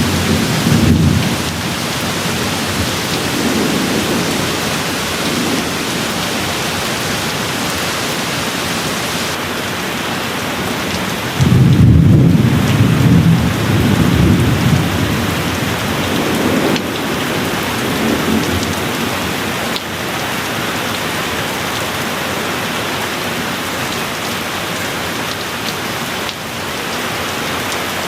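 Steady rain with rolling thunder. A loud rumble of thunder comes on suddenly about eleven seconds in and rolls on for a few seconds, with quieter rumbles before and after it.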